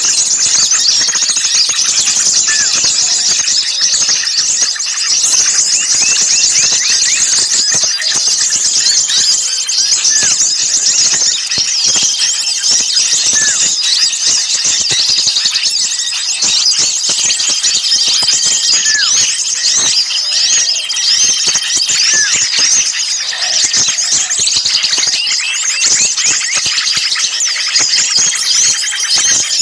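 Noisy chorus of many small songbirds calling at once: a bird-trapping lure recording of agitated, scolding calls. Rapid high chips and trills run without a break, with a few short steady whistles mixed in.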